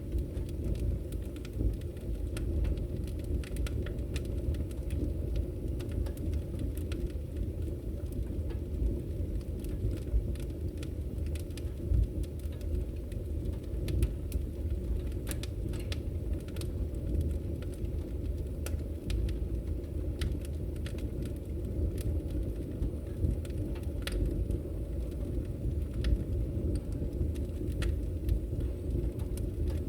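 Firewood burning: a steady low rumble of flames with many sharp, irregular crackles and pops.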